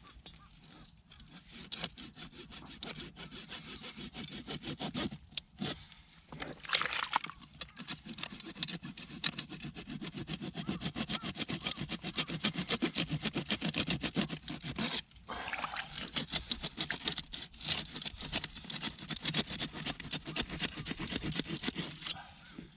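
A small engine running steadily with a fast, even chugging, cut off briefly a few times.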